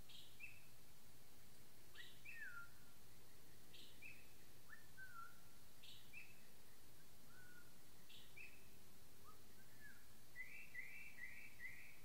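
Birds calling: a short, high two-part call repeated about every two seconds, with falling whistled notes in between and a quick run of four notes near the end, faint over a steady background hiss.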